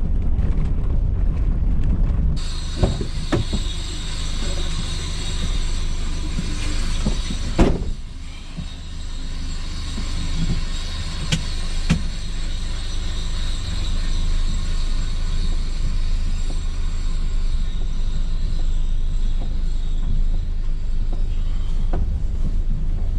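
A vehicle engine running steadily, with a few sharp knocks and clanks, the loudest about eight seconds in.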